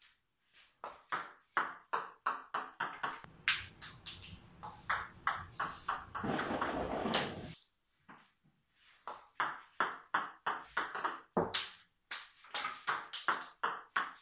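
Table tennis balls clicking sharply off racket and table during repeated serves, a few ticks a second. A short stretch of steady noise just past the middle ends in a brief silence, then the clicking resumes.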